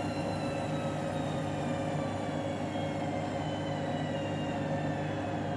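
Candy washing machine running its spin cycle: a steady motor hum and drum rumble, with a whine that falls slowly in pitch as the drum slows.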